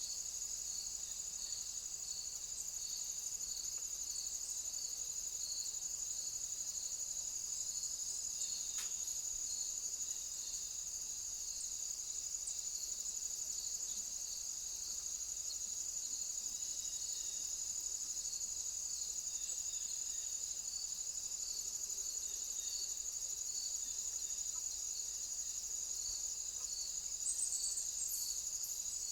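Insects stridulating: a steady, high-pitched trill, with a second chirp pulsing about once a second beneath it.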